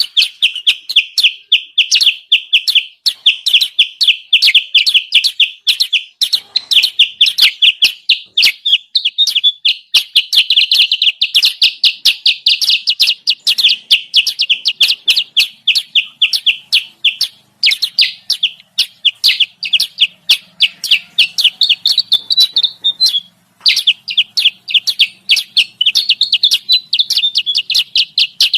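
Kutilang sutra bird-lure calls: a fast, unbroken series of high, sharp chirps, with one brief pause about three quarters of the way through.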